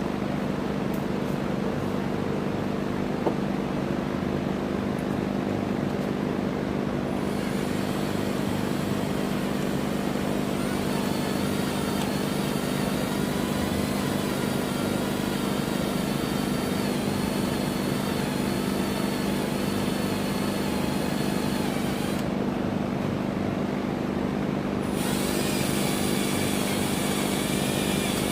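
Electric drill running steadily as it bores through the rifle's rear trunnion. A thin, wavering whine rides above the motor from about eight seconds in.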